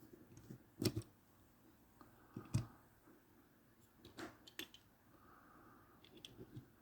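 Faint handling noise from small die-cast toy trucks: a few separate sharp clicks and light knocks, the two loudest about a second in and about two and a half seconds in.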